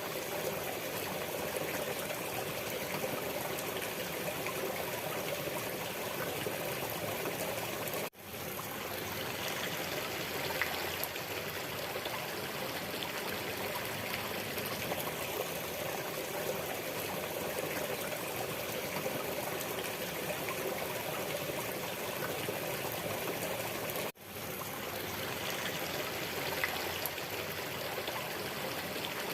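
Waterfall, its water falling and splashing in a steady, even rush. The sound drops out for a split second twice, about 8 and 24 seconds in, then returns.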